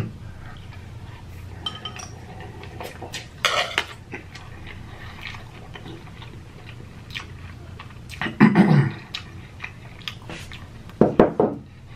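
Close-miked chewing of a mouthful of chewy instant noodles: wet mouth sounds with many small clicks, and three louder bumps about three and a half, eight and a half and eleven seconds in.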